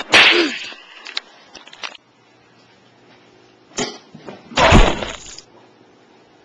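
A loud crash of something breaking right at the start, with a brief cry, then a sharp knock and a second, heavier crash lasting about half a second.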